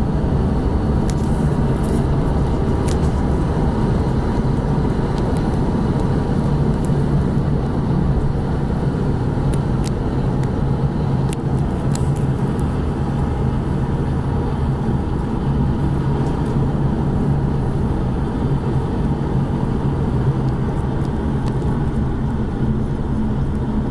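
Chrysler 300 SRT8's 6.1-litre HEMI V8 cruising at a steady speed, heard from inside the cabin as an even engine drone over road noise.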